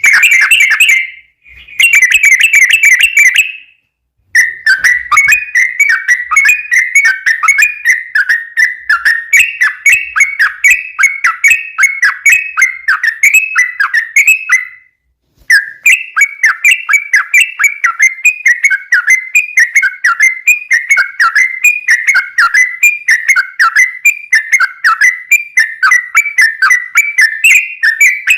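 Yellow-vented bulbul (trucukan) singing a long, rapid rolling song of bubbling whistled notes, with brief breaks about a second in, near four seconds and about halfway.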